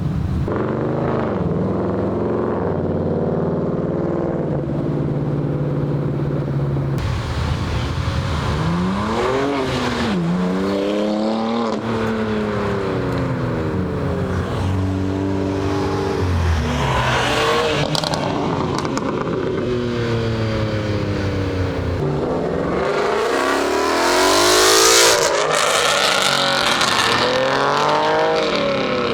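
Cars accelerating out of a car show and driving past, engines revving up and dropping back as they shift through the gears, with the loudest pass about three-quarters of the way through.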